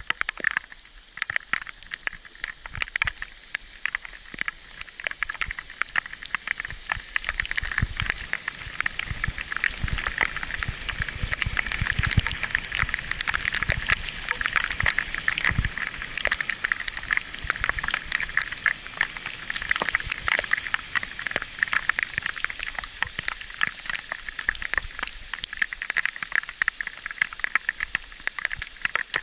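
Bicycle riding on a rough gravel road: a steady hiss of tyres on loose stones, with a dense run of clicks and rattles from the bike, and low rumbling gusts of wind on the microphone in the middle.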